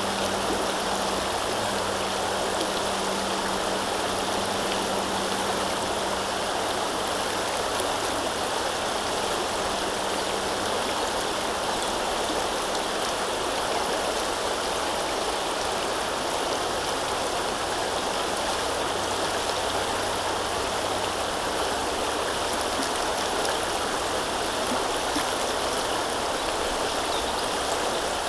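River water flowing steadily: an even, unbroken rushing. A faint low hum underneath fades out about ten seconds in.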